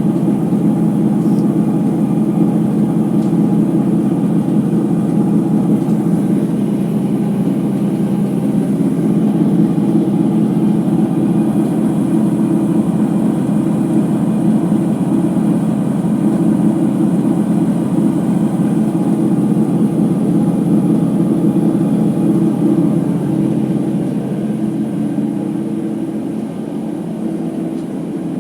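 Ipso HF 65 commercial washer-extractor in its final spin, giving a loud, steady rumble from worn drum bearings; it eases off a little over the last few seconds.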